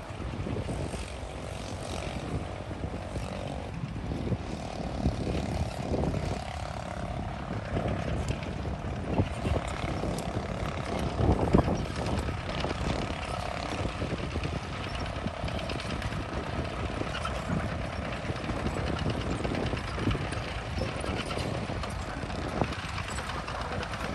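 Diesel engines of a bulldozer and a dump truck running steadily at work, with scattered knocks and a loud clank about halfway through.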